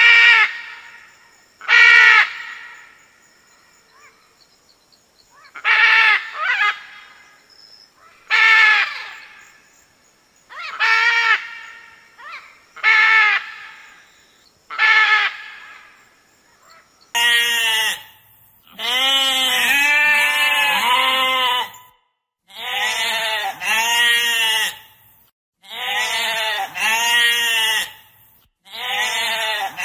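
A macaw gives single and double squawking calls about every two seconds. About halfway through, sheep take over with a run of long, wavering bleats that overlap and repeat.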